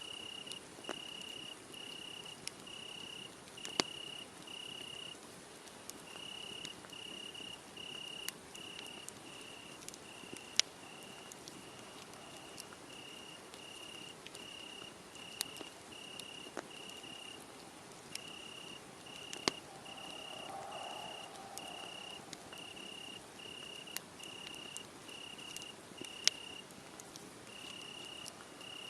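Crickets chirping in an even, high-pitched rhythm, about three chirps every two seconds with a few short pauses, over a crackling wood fire whose sharp pops stand out irregularly.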